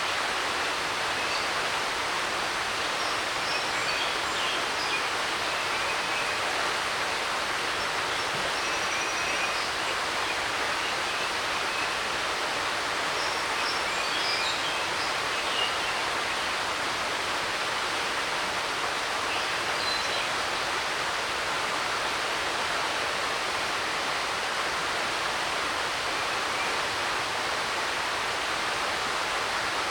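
Creek running with a steady rushing hiss, like static on an old TV, with faint bird chirps over it now and then.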